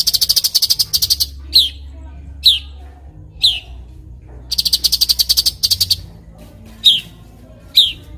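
Cucak cungkok songbird singing: two fast, tight chattering trills of about a second each, alternating with single sharp notes that slide steeply downward.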